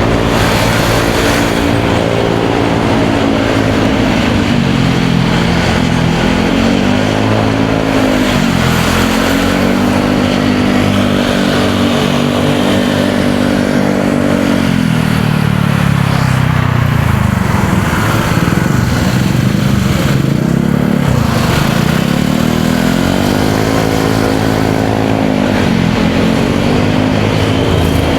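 Motorcycle engine heard from the rider's seat, its pitch rising and falling several times as the throttle opens and closes, fading back for a stretch in the middle. Steady wind and road noise runs underneath.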